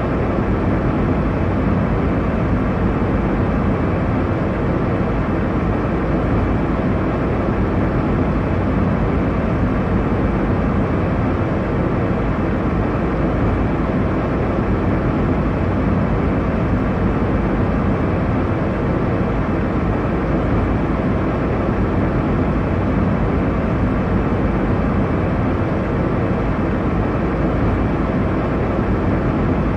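Steady airliner cabin noise: the low, even rush of engines and airflow heard inside a jet in cruise, with no change in level.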